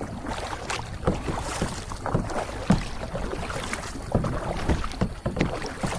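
Kayak paddling: paddle blades dipping into the water with irregular small splashes and drips, over a light wind rumble on the microphone.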